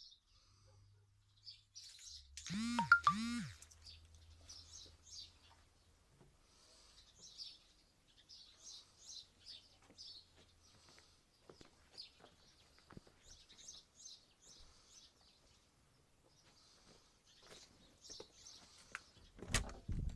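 Small birds chirping: short, high calls repeated every second or so. About three seconds in there is a brief, much louder sweeping sound, and near the end a knock.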